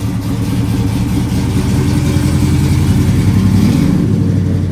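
Car engine running as a car drives past close by. The low engine note grows louder to a peak about three seconds in, then starts to fade.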